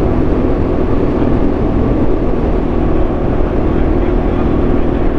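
Large single-cylinder dual-sport motorcycle engine running at a steady cruising speed on a dirt road, a continuous even drone over a heavy low rumble.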